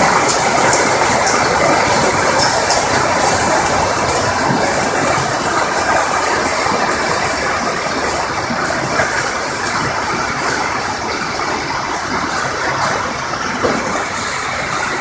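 Hail and heavy rain falling, with hailstones striking a hard surface in a dense, rapid clatter of clicks over a steady wash of rain. The clatter eases slightly toward the end.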